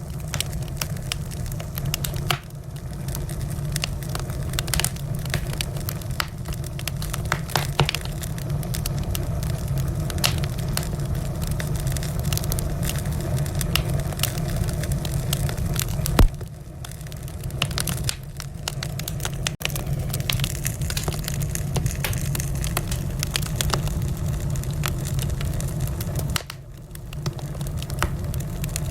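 Wood fire burning in a fireplace: a steady low rumble under constant irregular crackling and popping, with one loud snap about halfway through.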